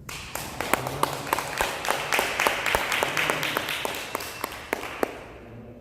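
A small congregation applauding, with individual hand claps distinct, dying away near the end.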